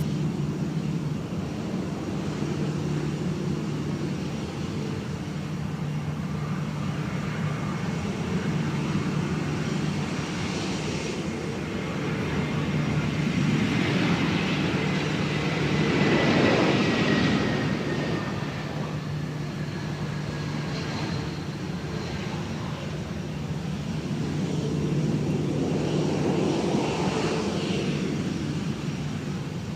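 Airbus A319 jet airliner passing on its landing approach. The engine noise swells to its loudest a little past halfway, with a thin whine that slowly falls in pitch as it goes by, then eases off over a steady low hum.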